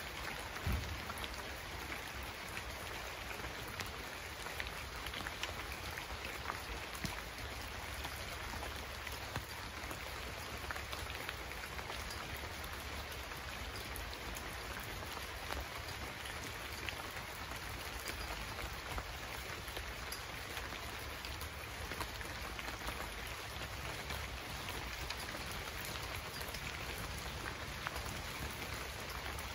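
Steady heavy rain falling, with scattered sharper drop ticks and a soft low thump about a second in.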